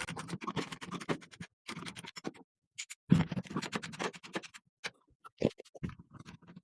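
Hand ratchet clicking in quick runs of about ten clicks a second, with short pauses between spurts, as the 7mm bolts on a fuel tank filler neck are backed out.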